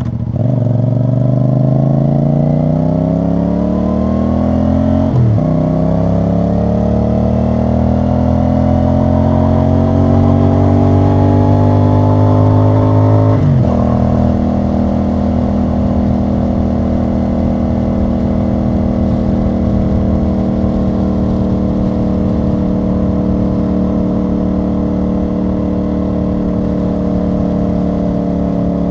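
CFMoto CL-C 450 parallel-twin motorcycle engine and exhaust pulling through the gears. The pitch rises, drops at an upshift about five seconds in, rises again, and drops at a second upshift about thirteen seconds in. It then holds a steady cruising note.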